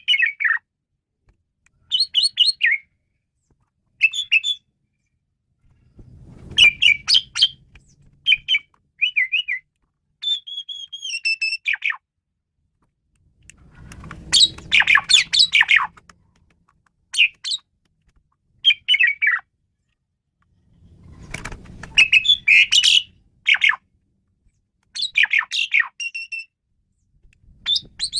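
Asian pied starling (jalak suren) singing in short bursts of loud whistles and harsh chattering notes, with brief silent pauses between phrases. A low rumble sits under three of the phrases.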